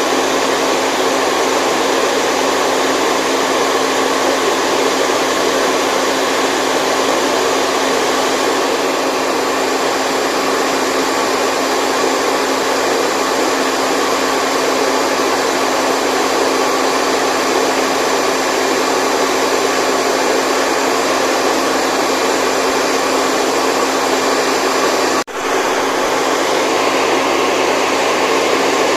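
Steady white noise for baby sleep, a constant even rushing hiss with faint steady hum lines in it. It drops out for an instant about 25 seconds in, then carries on unchanged.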